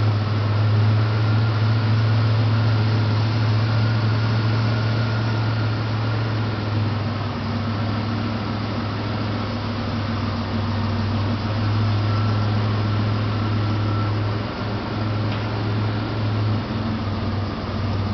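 1987 Buick Regal Turbo T's 3.8-litre turbocharged V6 idling steadily.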